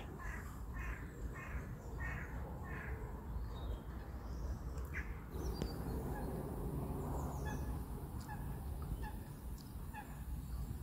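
Birds calling: a quick run of about five calls, roughly two a second, then scattered faint chirps over a low steady rumble.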